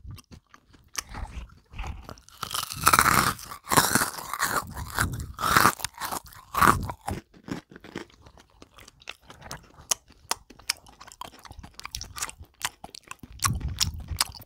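Close-miked crunching and chewing of white-chocolate-coated dried strawberries, with dense crackles as the hard dried fruit breaks between the teeth. The crunching is loudest in the first half and thins to scattered small clicks and wet mouth sounds later.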